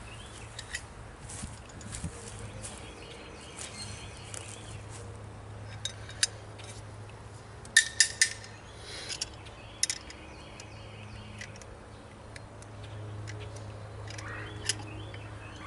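Hand tools clicking and clinking against the metal of a bench grinder as it is being taken apart: scattered sharp metallic clicks, with a cluster of louder ones about eight seconds in, over a low steady hum.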